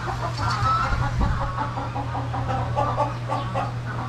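A flock of chickens clucking, many short calls overlapping one another, over a steady low hum.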